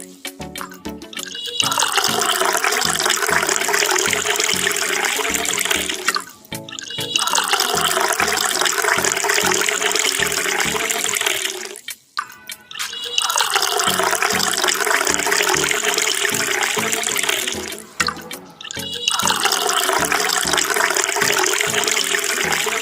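Water gushing in four spells of about five seconds each, with short breaks between, from a miniature DIY water pump model. Background music with a steady beat plays underneath.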